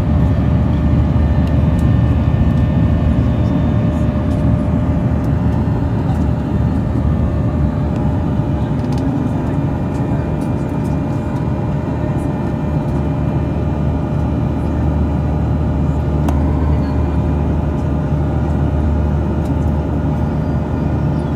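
A jet airliner's engines running at steady power: a loud low rumble with steady whining tones over it.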